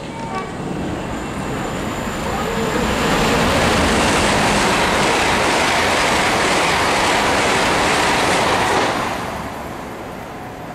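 A Great Western Railway Hitachi intercity express train passing at speed: the rush of wheels on rail and air builds, stays loud for about six seconds as the carriages go by, then fades away.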